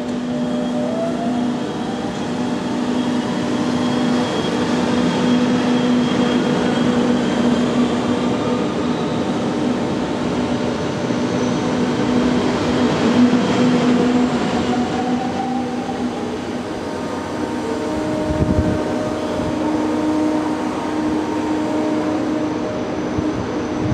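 Electric trains in a station, with a steady electric hum and traction motors whining up in pitch as a train pulls away, twice. There is a brief low thump near the end.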